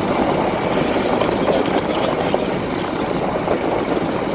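Steady engine and road noise of a car being driven along the road.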